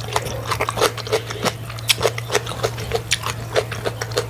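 Close-miked wet chewing: a quick, uneven run of smacks and mouth clicks, about three to four a second, over a steady low hum.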